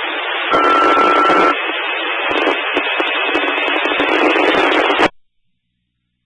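Fire dispatch two-tone sequential page over a scanner radio: a steady tone for about a second, then a higher steady tone for about three seconds, over radio static. The transmission cuts off abruptly about five seconds in.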